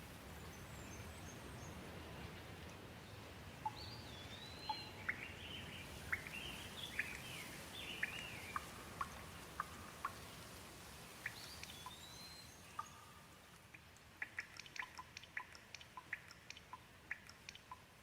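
Light rain falling, a soft steady hiss, with a bird calling in short whistled chirps through the first half. Near the end the hiss thins and a quick scatter of drips ticks.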